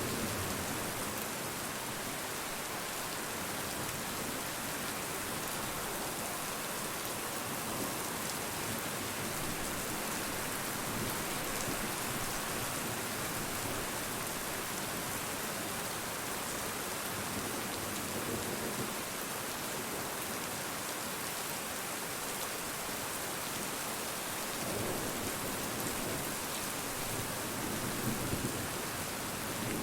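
Steady rain falling, a dense even hiss of drops, with a few brief low rumbles about two-thirds of the way in and near the end.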